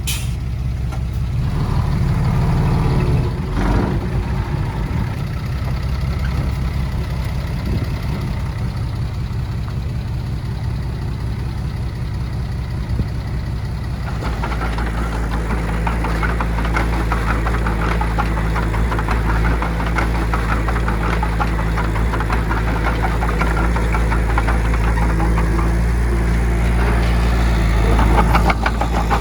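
Heavy diesel earthmoving machinery running steadily. About halfway through, the sound changes abruptly to a fuller, more clattering engine note.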